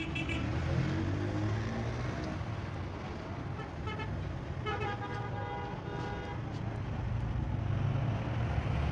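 Vehicle engine running steadily, with a horn sounding briefly several times, the longest for about a second and a half midway.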